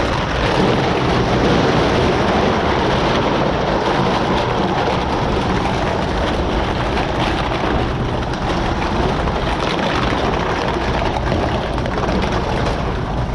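A vehicle running: a low, steady engine hum under an even rushing noise that holds level throughout.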